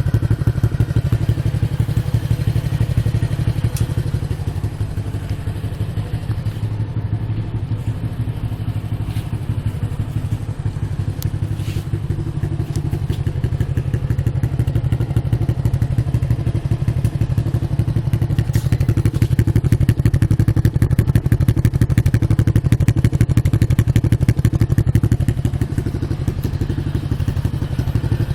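Modenas GT128 single-cylinder four-stroke engine running through an aftermarket E-Power Belang muffler, with a steady, deep, rapid exhaust pulse. It gets somewhat louder a little past the middle.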